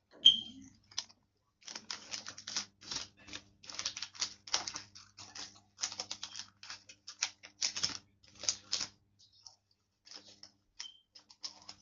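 Sheet of paper being folded and creased by hand: a run of quick, crisp rustles and crackles that start and stop, thinning out in the last few seconds.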